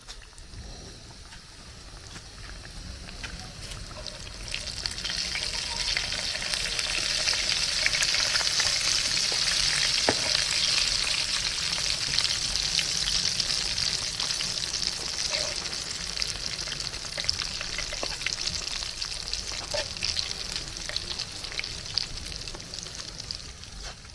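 Food frying in hot oil, a steady sizzle that swells about four seconds in and slowly eases toward the end, with a few small pops.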